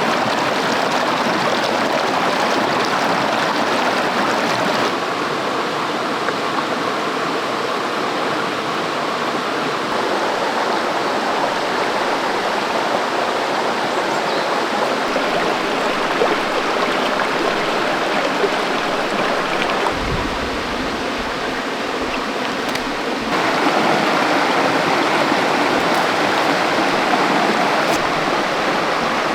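Steady rush of running water. It drops a little about five seconds in and grows louder again near the end.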